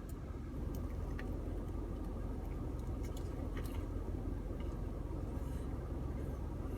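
Biting into and chewing a crispy fried chicken sandwich: scattered faint crunches over a steady low hum.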